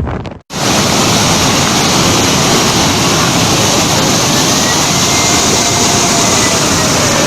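Typhoon wind and heavy rain: a loud, steady rush of noise that starts suddenly about half a second in, with a faint wavering whistle from about three seconds in.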